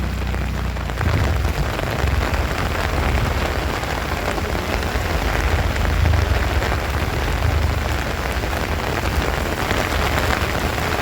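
Heavy rain pouring down steadily, with a low steady rumble underneath.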